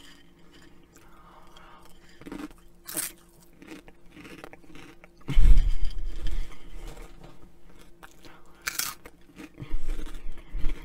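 Close-miked crunching and chewing of Flamin' Hot Cheetos: a run of short, crisp crackles, with a louder burst about halfway through.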